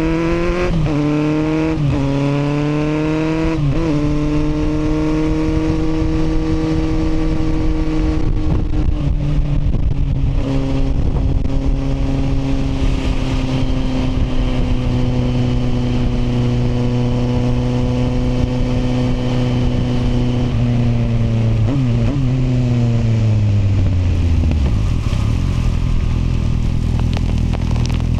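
Kawasaki motorcycle engine pulling through three quick upshifts, each a rising whine, then holding a steady cruise. About three-quarters of the way through it winds down as the bike slows, settling to a low, steady idle near the end. A constant rushing noise of wind and road runs underneath.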